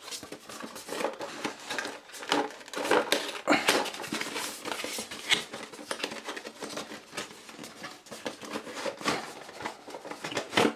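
Product packaging being opened and handled by hand: irregular rustling with many small clicks and knocks.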